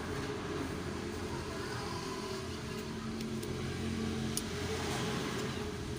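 A steady low engine rumble, like a vehicle running, with a single faint click about four seconds in.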